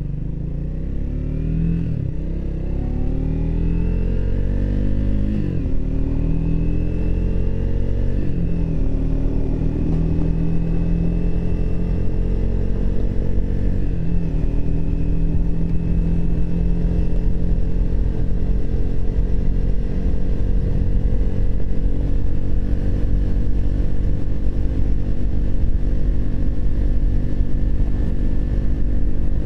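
Triumph Speed 400's single-cylinder engine pulling away and accelerating, its pitch rising and dropping sharply with three upshifts in the first fourteen seconds or so, then running at a steady cruise with wind noise.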